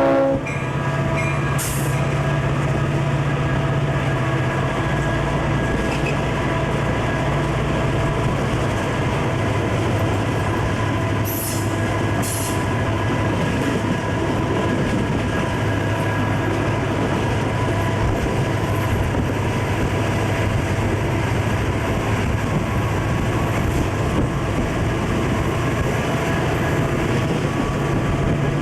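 Conrail diesel-hauled freight train running steadily: a continuous locomotive engine drone over rolling rail noise. The engine note drops a little about a third of the way through.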